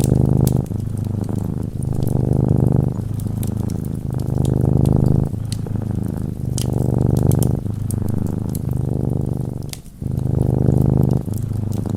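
A domestic cat purring close to the microphone: a steady low rumble that shifts with each in- and out-breath about once a second, with a brief pause near the end. Small sharp crackles from a wood fire pop over it.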